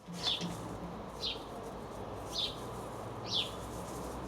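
A small bird calling over and over: a short, high chirp falling in pitch, about once a second, four times, over a steady low hum.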